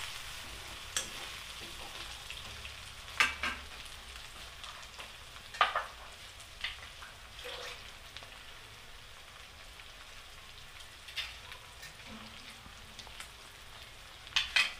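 Chicken pieces frying in oil in a metal wok, a steady sizzle. A spatula clacks and scrapes against the pan a few times, loudest near the end.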